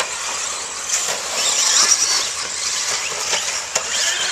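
RC stadium trucks racing, their motors making overlapping high whines that rise and fall as the trucks speed up and slow down. A few sharp clacks from the trucks landing or hitting each other are heard.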